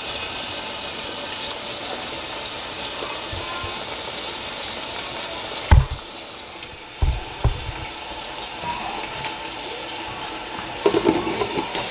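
Frozen pre-cut chicken strips frying in a pan, sizzling steadily as they thaw in the heat. A few knocks come around the middle, and near the end a wooden spoon stirs and scrapes the pan.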